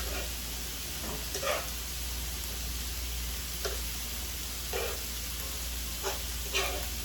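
Rice and egg sizzling steadily on a hot flat-top griddle, with a utensil scraping and tapping against the griddle about five times as the food is stirred.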